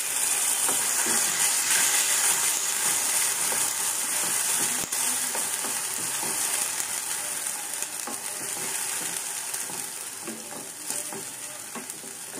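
Onion paste sizzling in hot mustard oil in a kadhai, stirred with a wooden spatula that scrapes the pan; the sizzle slowly dies down as the paste cooks.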